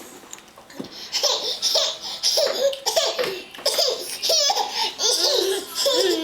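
A young child laughing in short repeated high-pitched bursts, starting about a second in.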